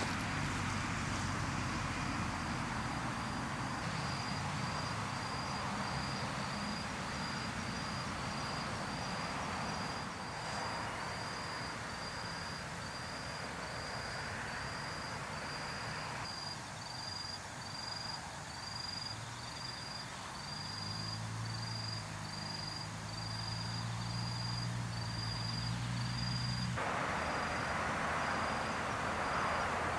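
A cricket chirping steadily, one high chirp a little more than once a second, over a steady hiss. A low hum joins from about twenty seconds in for several seconds.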